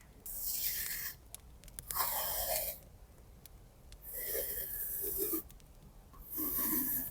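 Four scratchy rasps, each lasting about a second, from paper craft materials handled close to the microphone.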